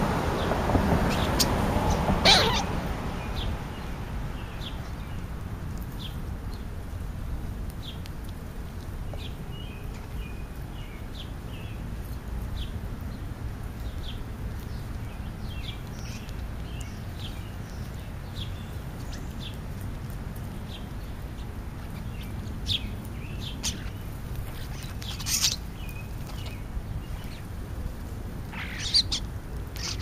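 Feeding birds giving short, scattered high chirps and calls, some louder and harsher near the end, over a steady low background rumble. A louder rushing noise fills the first couple of seconds.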